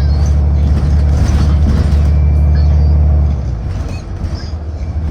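City transit bus engine running with a loud, steady low drone that drops away about three seconds in.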